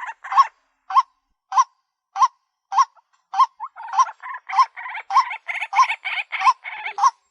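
White-breasted waterhen calling: harsh notes repeated about every half second, with a denser run of overlapping calls through the middle of the stretch.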